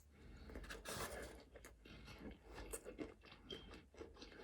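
Faint close-up chewing of a bite of chicken strip burger, with many small irregular crunches.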